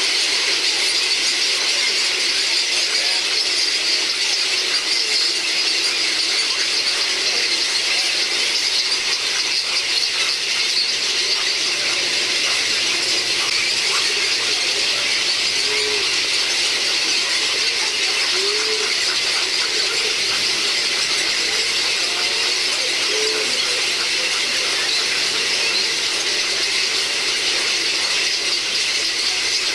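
Steady, dense, high-pitched chattering and squealing of many birds calling together at a heron nesting colony, the continuous din of nestlings and adults.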